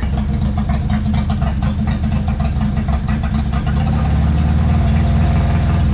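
Engine idling close by, a low pulsing note that starts abruptly and grows a little louder about four seconds in.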